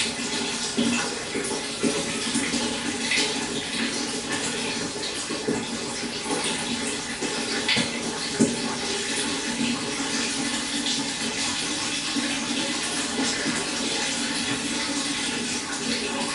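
Steady splashing and trickling water at a pond, with small sharp splashes scattered through it.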